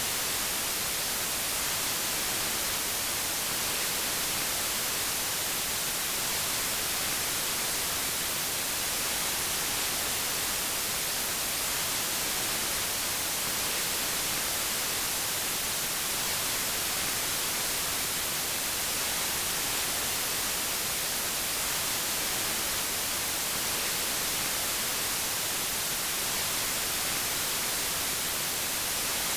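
Steady white noise: an even, unchanging hiss across the whole range, brightest in the high end.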